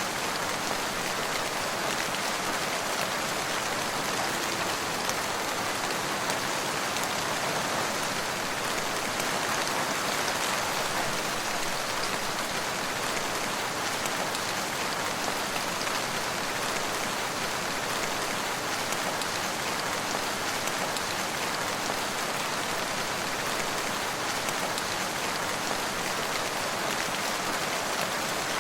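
Steady rain falling on surfaces, an even patter of many drops with no let-up.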